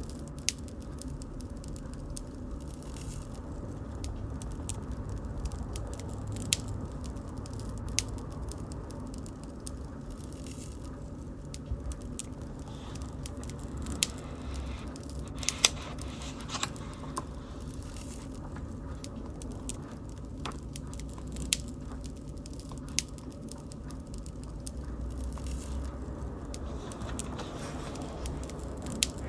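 Wood bonfire burning: a steady low rush of flame with scattered sharp pops and crackles at irregular intervals, the loudest pops a little past the middle.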